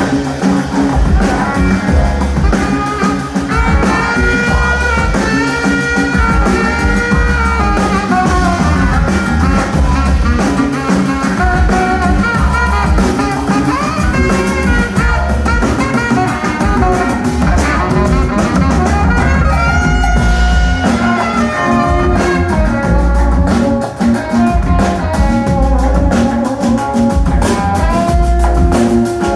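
Live band music: a horn section of saxophones, trombone and trumpet playing melodic lines over drums, percussion, bass and electric guitars.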